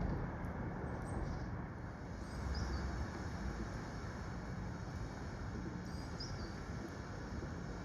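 Steady low outdoor background rumble, with two faint, short, high bird calls, one about two and a half seconds in and another about six seconds in.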